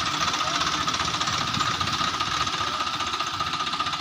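Swaraj tractor diesel engine running steadily with a rapid, even knocking beat and a steady high whine over it.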